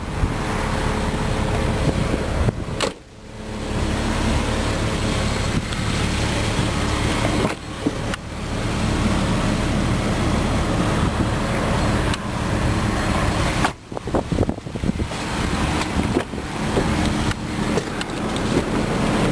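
2004 Jeep Grand Cherokee engine idling with a steady low hum, left running to charge a weak battery, with rushing noise over it that briefly drops out a few times.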